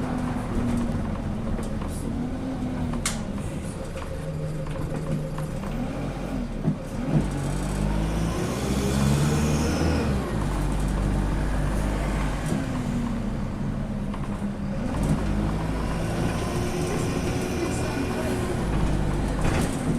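DAF SB120 bus's engine and Allison five-speed automatic gearbox pulling away and running through the gears, the engine note rising and dropping several times with a whine climbing near the middle. The bus is running healthily.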